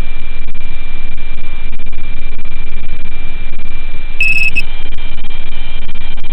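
Loud, steady electronic hiss with a constant high-pitched tone through it: the poor audio track of an FPV drone recording. About four seconds in, a short double beep sounds over the hiss.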